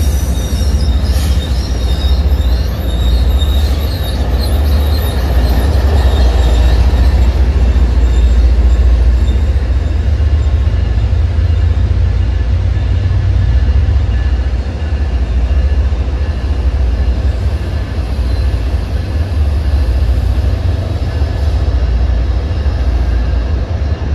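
MBTA bilevel commuter rail coaches rolling slowly past, wheels squealing in the first few seconds, over a steady low rumble that continues after the last car has gone by.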